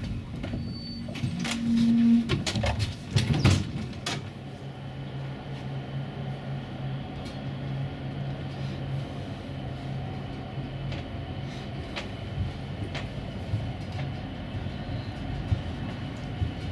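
A railway train: a few sharp clanks and knocks in the first four seconds, then a steady low drone with occasional light clicks.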